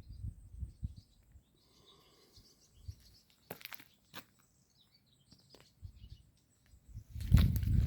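Outdoor ambience with faint birds chirping and a steady high whine, broken by scattered low thuds and two sharp clicks. Near the end comes a louder burst of low rumbling and thumping.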